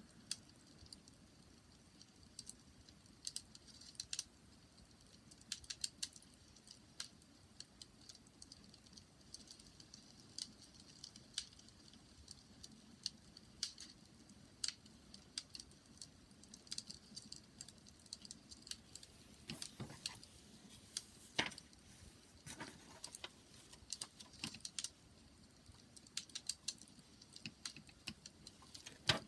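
Wood fire crackling: irregular sharp snaps and pops over a faint low hiss, with a busier run of louder snaps about two-thirds of the way through.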